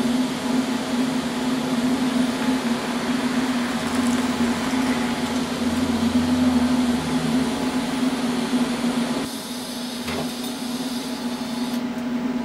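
TIG welding arc on steel angle: a steady hissing buzz over a constant hum, with the arc cutting out about nine seconds in. Near the end of the weld the tungsten dipped into the weld pool.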